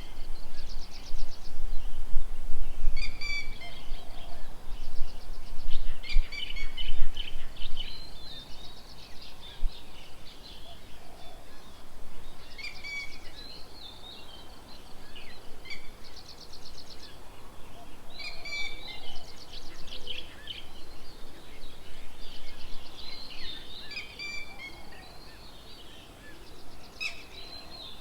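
Several birds calling and singing: a short phrase of a few quick notes repeated every few seconds, with fast trills in between.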